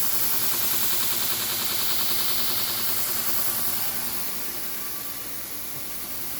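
A 2x72 belt grinder running under its VFD, the motor humming and the abrasive belt hissing steadily. The sound drops noticeably in loudness about four seconds in and stays lower.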